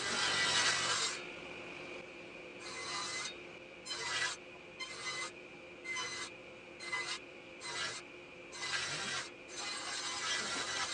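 Wood being worked with repeated rasping strokes: a noisy stretch at first, then about eight separate strokes roughly one a second, then steadier rasping near the end.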